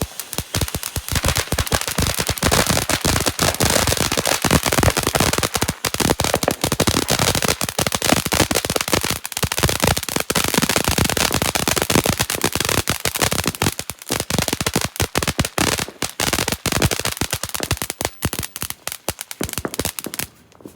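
Consumer fireworks crackling: a dense, rapid run of sharp pops and crackles that goes on for about twenty seconds and thins out near the end.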